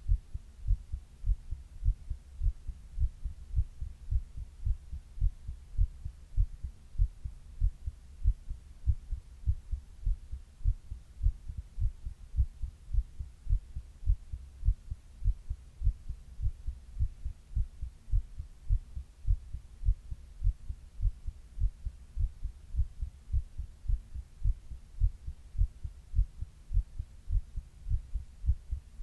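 A person's heartbeat, heard close up: a steady, even rhythm of low double thumps, the 'lub-dub' of the heart's valves closing, over a faint low hum.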